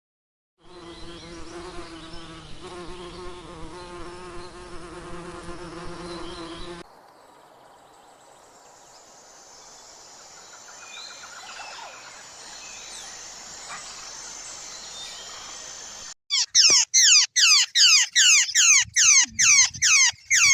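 Insect buzzing with a steady hum for about six seconds. It is followed by a fainter hiss with scattered chirps, and then by loud, rapid chirps that sweep down in pitch, about three a second.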